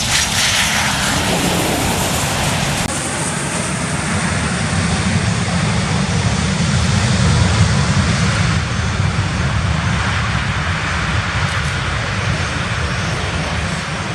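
Boeing 737-800's CFM56 jet engines running loudly as the airliner lands, a steady roar with a high whine falling in pitch over the first couple of seconds.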